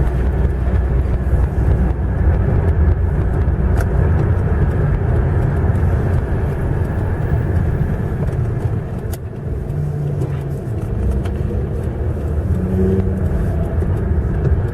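Car driving, heard from inside the cabin: a steady low rumble of engine and tyre noise, easing briefly about nine seconds in.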